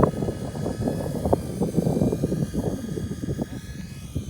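Turnigy FBL100 micro electric RC helicopter in flight, its motor and rotor giving a faint steady high whine under heavy gusty wind buffeting on the microphone.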